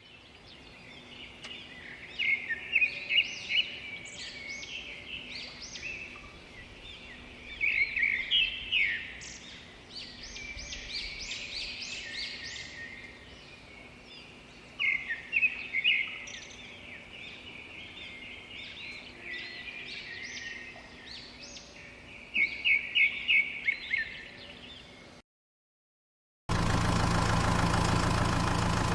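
Small songbirds chirping and singing in quick repeated phrases, with several louder bursts of song. Near the end the sound cuts out for about a second, then a loud engine starts running steadily, its pitch rising slightly at the very end.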